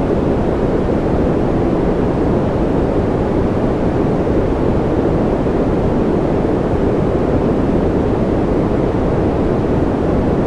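Continuous white-noise track for infant sleep: a steady, even rushing with most of its weight low, a deep muffled rush with little high hiss, unchanging throughout.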